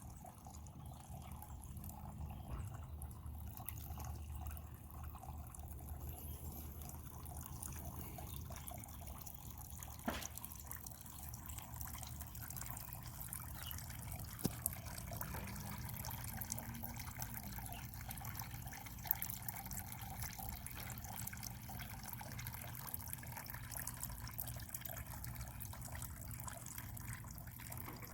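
Rain falling at night, a steady patter with many small scattered drips and a few sharper drip clicks here and there.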